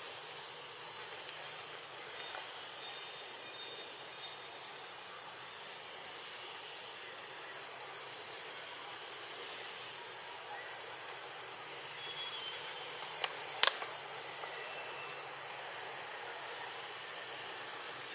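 Steady high-pitched chorus of insects chirring. Two sharp clicks come close together about thirteen seconds in.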